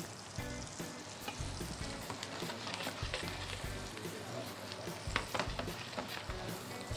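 White beech mushrooms sizzling as they fry in a pan, with a few sharp clicks about five seconds in.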